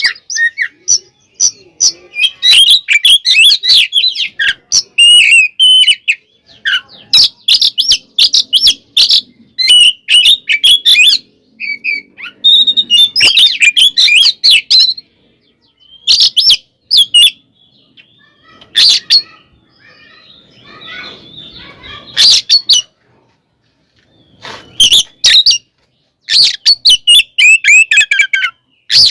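Oriental magpie-robin (kacer) singing in loud bursts of rapid, varied chattering phrases, with short pauses between them and a quieter stretch in the middle. This is the continuous, aggressive 'gacor' fighting song that keepers play to provoke other magpie-robins.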